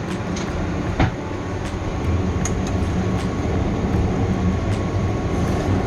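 Steady rumbling hiss of stovetop cooking: a wok of chicken wings cooking in lemon and cane-sugar sauce over the burner. A single sharp click comes about a second in.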